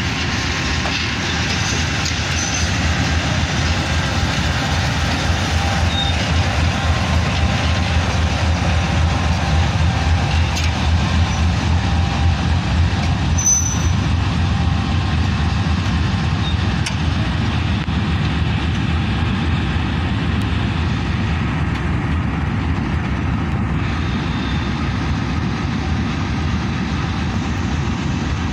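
Diesel locomotive engine running with a steady throb, as railway wagons roll slowly past on the track close by.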